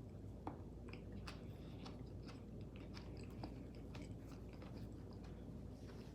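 Close-up chewing of soft food with wet mouth clicks and smacks, the sounds of eating buttery eggs, potatoes and shrimp with onions.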